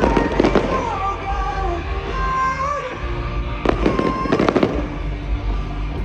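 Fireworks bursting in two quick clusters of bangs and crackles, one at the start and one about four seconds in, over music with a steady low bass and a melody line.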